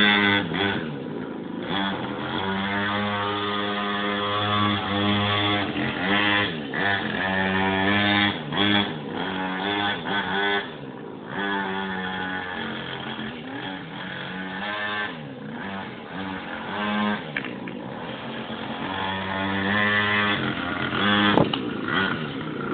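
Mini moto (pocket bike) engine running, its pitch rising and falling again and again as the throttle is worked.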